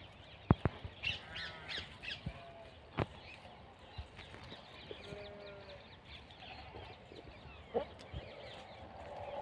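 Birds chirping and calling in quick, short notes, with a brief held call about five seconds in and a few sharp clicks, the loudest about half a second in.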